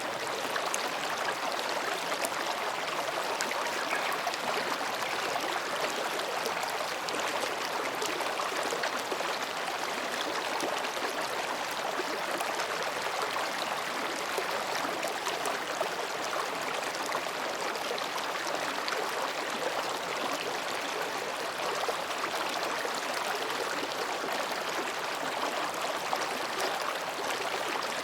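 Mountain stream babbling steadily over and between rocks, an even rushing and gurgling of water that never lets up.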